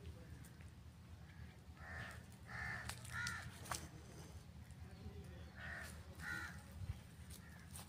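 Bird calling: five short calls, three in quick succession and then two more a couple of seconds later, over a steady low rumble.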